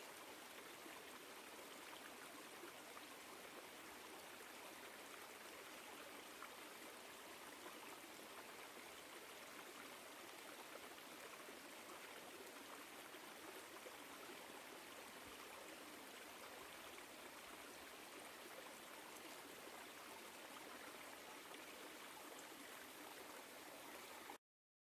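Woodland stream flowing, a faint steady rush of water that cuts off suddenly near the end.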